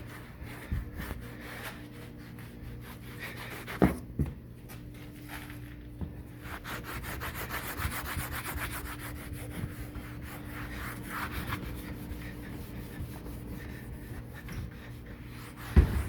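Brush scrubbing a refrigerator's surface with soap and water in rapid back-and-forth strokes, with a couple of sharp knocks about four seconds in.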